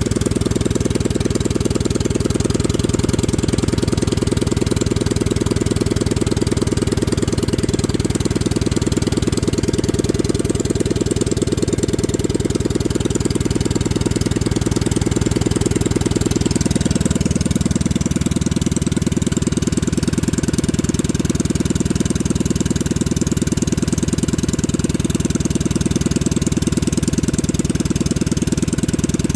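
Predator 212cc Hemi single-cylinder go-kart engine with a straight-pipe open header, idling steadily with rapid, even exhaust pulses. About halfway through it settles to a slightly lower speed.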